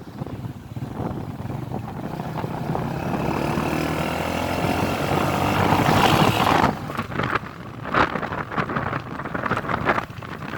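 A motor vehicle's engine rising in pitch and growing louder, as if accelerating, then cutting off suddenly about two-thirds of the way through, followed by rougher, uneven noise.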